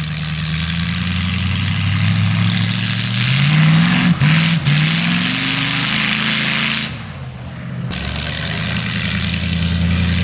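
Demolition derby car's engine running and being revved. Its pitch climbs a few seconds in, cuts out for two split-second moments just after, drops back and quietens near the two-thirds mark, then climbs again, with a loud rushing exhaust noise over it.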